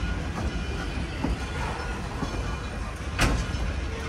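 Passenger coaches rolling past close by: a steady rumble of steel wheels on rail, with short clicks over the rail joints and one sharp, loud clack about three seconds in.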